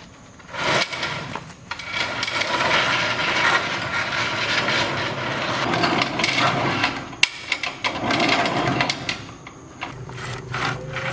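A tool cutting at a workpiece: a rough, uneven rasping noise that starts just under a second in and runs for about eight seconds, with a sharp click about seven seconds in.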